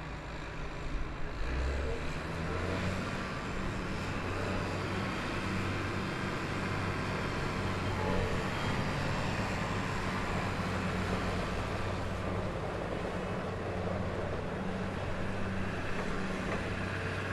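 Diesel engine of a 2009 Case IH Magnum 245 tractor running steadily, with a step up in level about a second and a half in.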